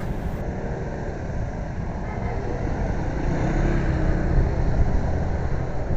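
City road traffic heard while riding, with wind buffeting the microphone in a steady low rumble; vehicle engines run faintly underneath.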